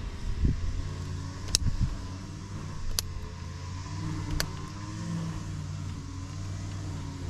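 Three sharp clicks, about one every second and a half, over a steady low hum, with a few dull knocks early on.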